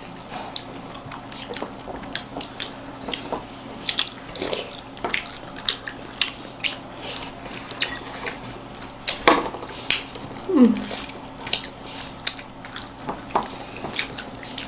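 Eating sounds from a meal of dhido and chicken curry: irregular wet clicks and smacks, two or three a second, with light clinks of dishes. A short falling sound comes about ten and a half seconds in.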